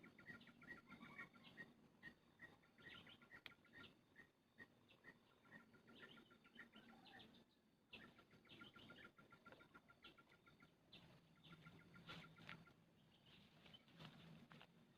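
Spiderhunter calls, faint: fast trains of short, high chirps repeated over and over, with brief pauses between the trains.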